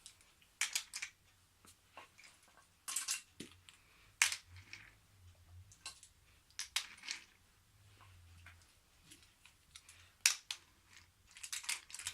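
Wooden toy train cars and track pieces clicking and knocking as they are handled and set onto a wooden track: a few sharp clicks at irregular intervals, some in quick pairs.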